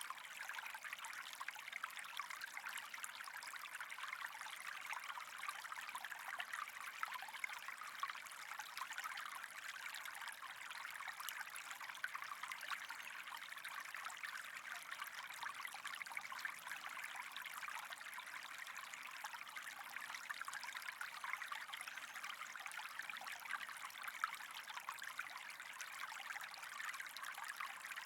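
Steady running water, an even, faint hiss with a fine trickling crackle that does not change.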